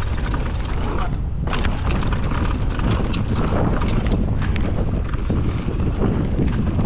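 Wind buffeting the microphone over a steady low rumble, with frequent clattering knocks and clicks of a mountain bike rolling fast over a rough trail.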